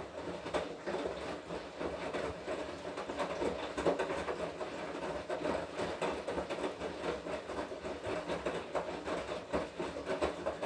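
Washing machine drum turning through its wash cycle, tumbling wet laundry with a steady rumble, sloshing and small clattering knocks.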